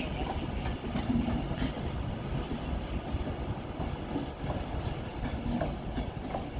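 Passenger train rolling slowly into the station: a steady low rumble with a few faint clicks.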